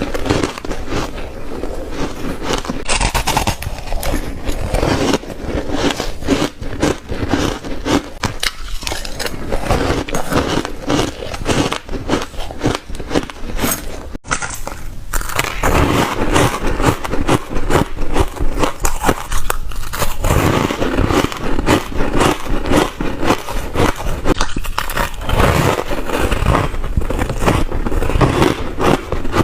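Close-up crunching of ice being bitten and chewed: dense, crackling crunches one after another, with a brief break about fourteen seconds in.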